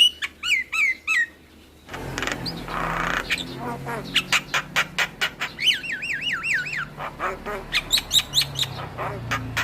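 Javan myna (jalak kebo) singing a rapid, varied song. It is made of quick repeated sharp clicks and chatter, a harsh squawk a couple of seconds in, and a run of looping whistled notes about halfway through.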